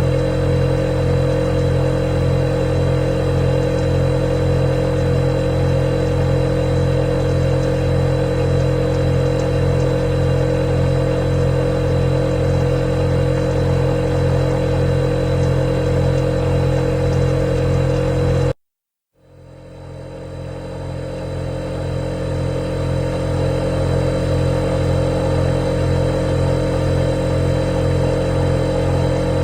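Refrigerator running with a steady hum and a faint high tone. About two-thirds of the way through it cuts out suddenly for under a second, then swells back up to the same steady hum over a few seconds.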